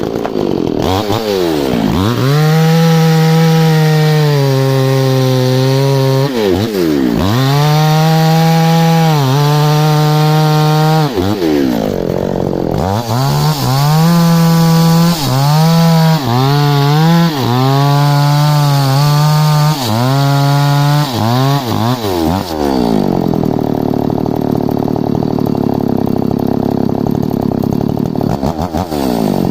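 Gas chainsaw engine run at high revs, its pitch dropping and climbing back several times as the throttle is let off and opened again, with quick blips in the middle. Near the end it settles to a low idle.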